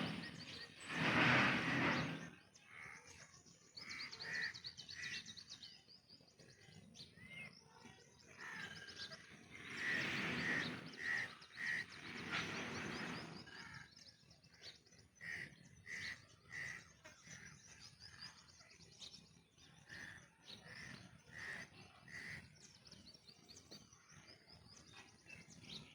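Birds calling: a few louder calls near the start and again about ten seconds in, among runs of short, quickly repeated chirps.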